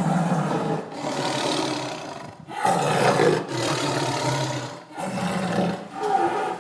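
Tiger roaring and growling in a run of loud roars, each about a second long, with short breaks between them.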